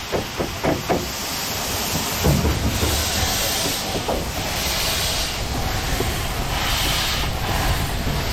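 Orenstein & Koppel 0-4-0 narrow gauge steam locomotive running with its train: a few sharp clicks in the first second, then a steady low rumble with hissing steam exhaust beats about every two seconds.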